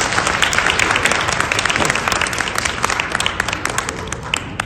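Audience applauding, a dense patter of clapping that thins to scattered claps near the end.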